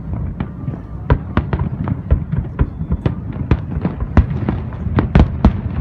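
Fireworks display: a rapid series of sharp bangs, about three or four a second, over a continuous low rumble.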